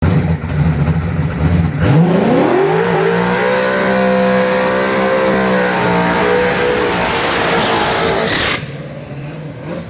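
Car engine idling low, then revved up about two seconds in and held at high revs for about six seconds before dropping back to idle near the end.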